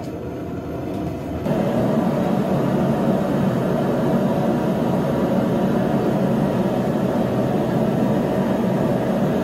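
Blacksmith's forge running with a steady rushing noise, which comes in loud about one and a half seconds in.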